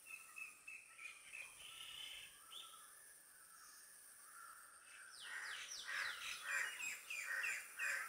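Birds calling: a string of short chirps in the first two seconds, then, about five seconds in, a louder rapid run of harsh downward-sweeping notes that lasts about three seconds.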